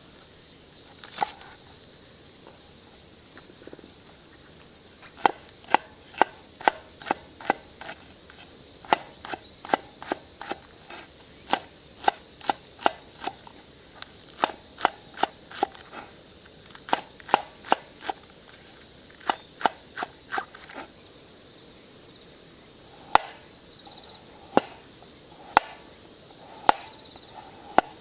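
Repeated sharp chopping knocks: fast runs of several strikes a second, then slower strikes about once a second near the end, over a steady high hiss.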